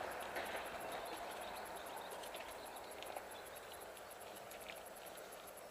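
Mountain bike rolling over a dirt trail: steady tyre noise with scattered small clicks and rattles, slowly getting quieter.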